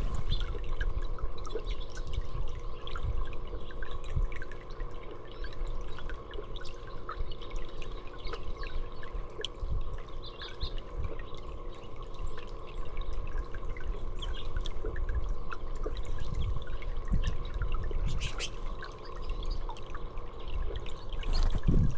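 Water trickling and dripping steadily, with many small splashes, over a gusty low rumble of wind on the microphone.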